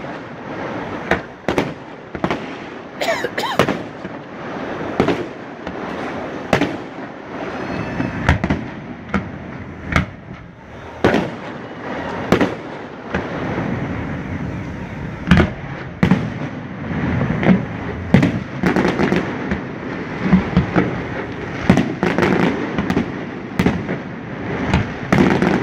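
Fireworks display: aerial shells bursting in a rapid, irregular run of sharp bangs, with crackling between them. The bangs come thicker and louder in the second half.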